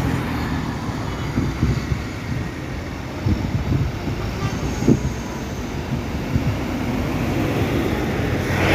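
Heavy truck engines running: a steady low rumble with a few short knocks.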